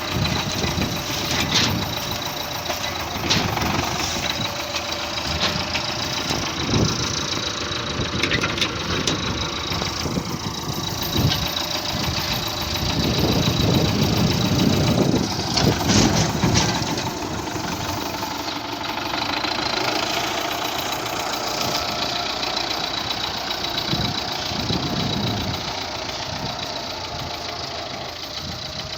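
Belarus MTZ-82 tractor's four-cylinder diesel engine running steadily, with scattered rattles and knocks over it. It grows louder for a few seconds about midway.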